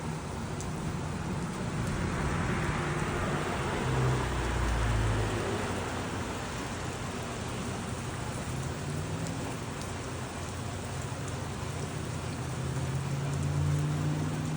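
Steady rain falling, with a car passing on the wet road about two to five seconds in and another vehicle's engine approaching near the end.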